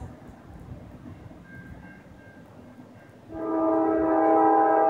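Diesel locomotive air horn on an approaching freight train: after a few seconds of low rumble, a long, loud, steady horn blast starts about three seconds in.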